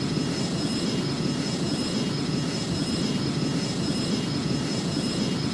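Embraer airliner's engines running steadily at high power: a continuous rumble with a faint steady high whine on top.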